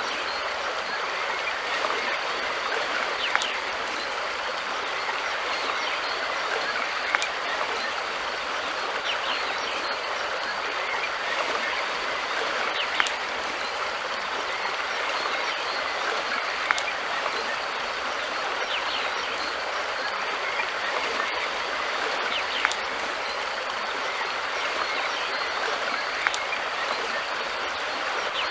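River water flowing steadily, an even rushing hiss, with a short sharp tick every few seconds.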